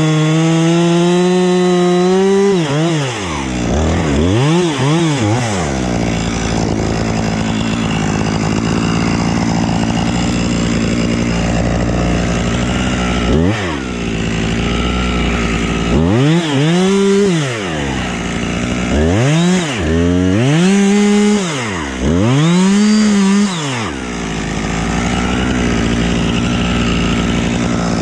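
Husqvarna chainsaw running, held at high revs at the start, then dropping to idle between repeated throttle revs that rise and fall in pitch, several in quick succession in the second half.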